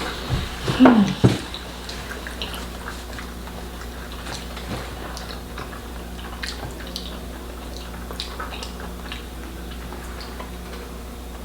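Eating sounds of fufu and soup: scattered small clicks and wet mouth noises, over a low steady hum. A short vocal sound falling in pitch comes about a second in.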